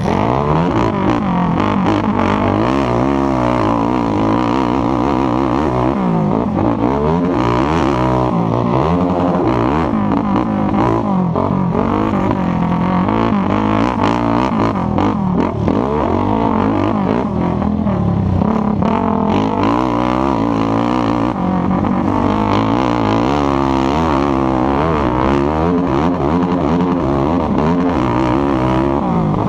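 Racing ATV engine running loud under hard throttle, its pitch climbing and falling back over and over as the rider accelerates and backs off.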